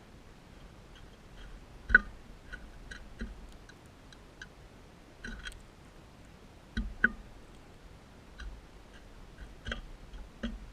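Crimson rosella cracking and chewing seeds: irregular crunching clicks, the sharpest about two seconds in and again about seven seconds in.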